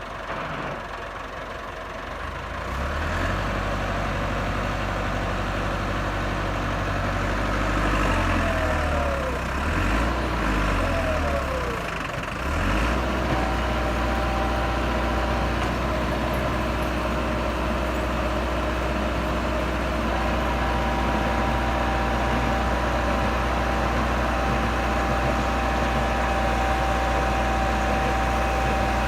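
Massey Ferguson 385 tractor's diesel engine running, quieter for the first couple of seconds. Its speed swings up and down a few times about a third of the way in, then it settles into a steady run, with a thin steady high tone over it from about two-thirds of the way through.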